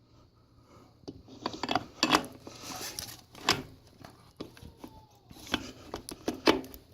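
Metal parts of a dirt bike's rear wheel assembly clinking and knocking as they are handled and fitted by hand, a string of separate sharp clinks.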